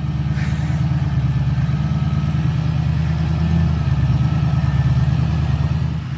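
Ford F-250's Powerstroke diesel engine running under load as the truck pulls up a rocky hill. It is loud and steady, with a low, even drone.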